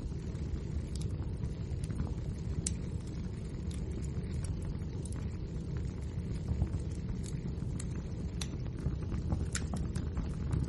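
Wood fire burning: a steady low rumble of flames with frequent irregular crackles and pops from the burning logs.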